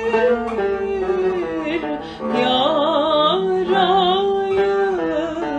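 Turkish art song: a long, ornamented sung line with wide vibrato, held between the words of the lyric, over plucked-string accompaniment.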